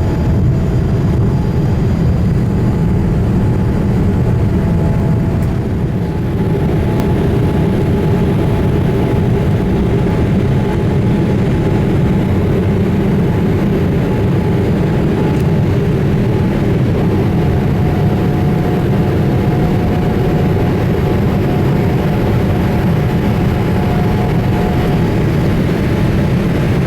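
Steady cabin noise aboard a Boeing 787-8 with its engines running: a loud, even low rumble with a few faint steady tones.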